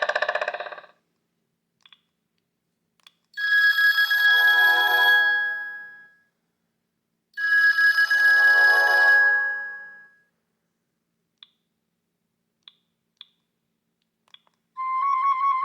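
Sony Ericsson K750i mobile phone's speaker playing a preloaded telephone-bell-style ringtone: a trilling ring sounds twice, each ring about three seconds long and fading out. A few faint clicks fall between the tones, and a new melodic tone starts near the end.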